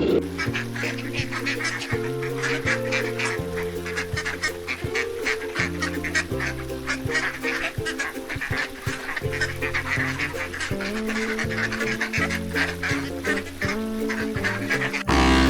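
Background music of held, stepping notes, with a dense, rapid stream of short bird calls over it.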